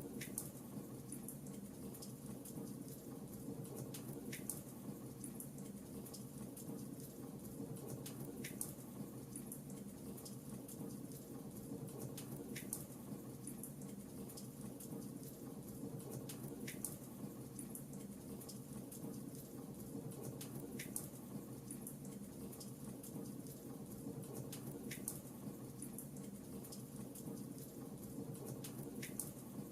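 Fireplace crackling: a steady soft hiss of burning wood with a sharp pop about every four seconds.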